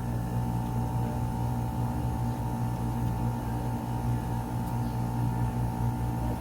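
Air conditioner outdoor unit running with a steady hum and an even higher-pitched tone over it.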